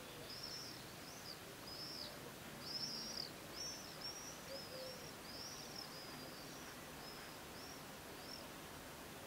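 A bird calling: a series of about fifteen short, high, arched chirps at roughly two a second, stopping shortly before the end, over faint outdoor background noise.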